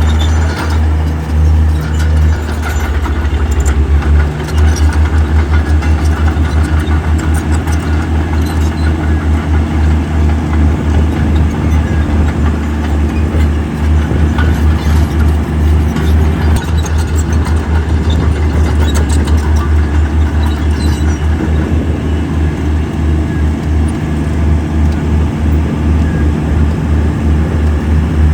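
Heavy diesel engine of earthmoving equipment running with a deep, steady throb, with a few scattered clanks.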